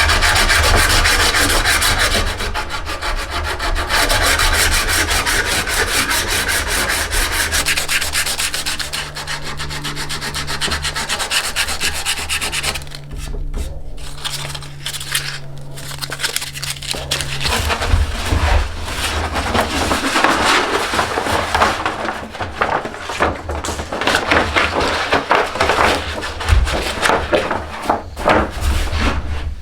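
A hand tool abrading a yew bow stave in fast, continuous rubbing strokes, pausing briefly near the middle.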